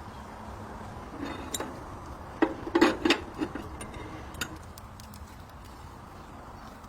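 A short run of clinks and knocks, loudest in a cluster a little under three seconds in, with a few lighter ticks before and after over a steady low background noise.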